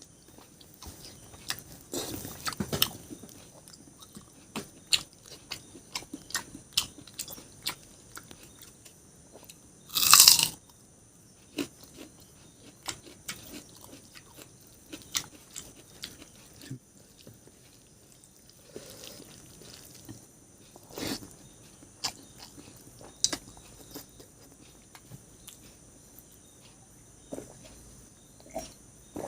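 Close-up eating sounds: a person chewing and crunching food, with many short sharp bites and mouth clicks and one louder, longer sound about ten seconds in.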